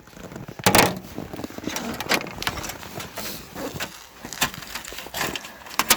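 A few separate sharp clicks and snaps from hand tools on the tractor's engine wiring, the loudest about a second in, while the coil kill-switch wire is being cut.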